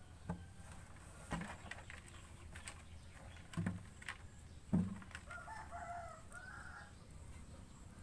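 A bird's pitched call lasting about a second and a half, starting about five seconds in, after a few short knocks; the loudest knock comes just before the call.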